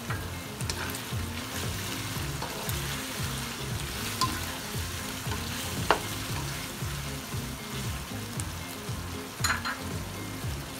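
Chicken pieces sizzling in hot oil in a karahi as garlic-ginger paste is stirred through them, with rhythmic scraping stirring strokes and a few sharp knocks against the pan, the loudest about six seconds in.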